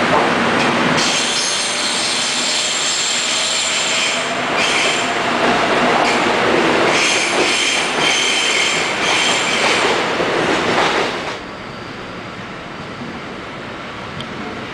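A passing train running over the rails, its wheels squealing on and off in high-pitched tones over the rumble of the cars. The squeal and rumble cut off abruptly about eleven seconds in, leaving a quieter steady background noise.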